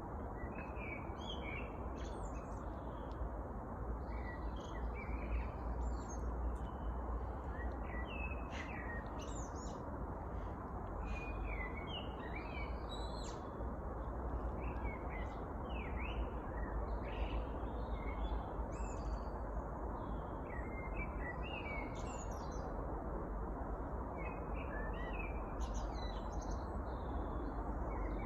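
Several songbirds chirping and singing in many short, overlapping calls and trills, over a steady low background noise.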